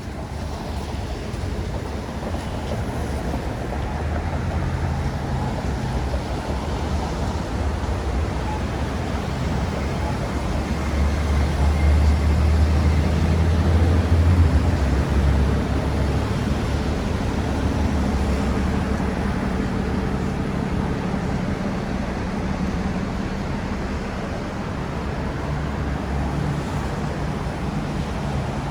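City road traffic rumbling steadily, with a heavy vehicle's engine growing louder and passing about halfway through.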